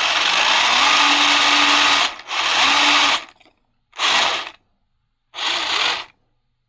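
Kyosho Blizzard 2.0 RC snowcat's electric drive motor and gearbox run at full throttle with a whine that rises as they spin up. The run holds for about two seconds, breaks briefly, and is followed by three shorter bursts of throttle, the last cutting off about six seconds in.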